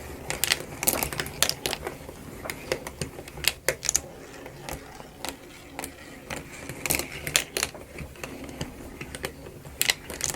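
Wooden clockwork marble run in motion: steel ball bearings clicking and rattling irregularly, several times a second, as they roll along the wooden tracks and are lifted by the mechanism.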